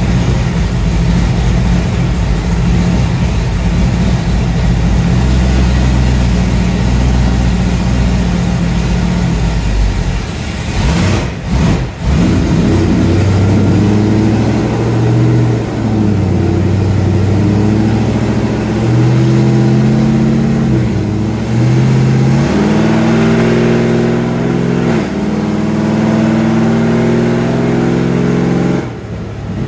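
Car engine running on a chassis dyno: steady for the first ten seconds or so, then after a brief dip the revs climb and drop back sharply several times.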